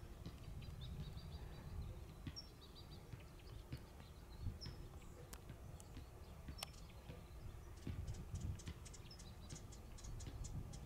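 Faint outdoor ambience: short high bird chirps over a steady low rumble, with a quick run of light clicks about eight seconds in.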